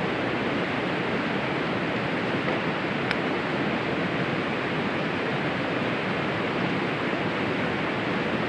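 Steady rushing noise of wind and rain, with a single sharp click about three seconds in.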